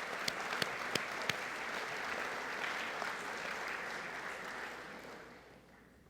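Audience applauding, with a few sharp single claps standing out in the first second or so; the applause fades out over the last couple of seconds.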